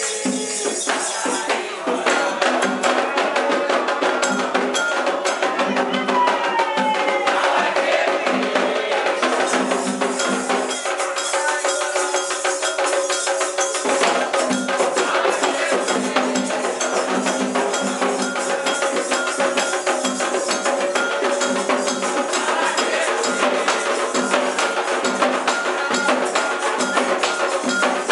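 Candomblé ritual music: dense, fast hand percussion with a bell and rattles, and sustained voices over it.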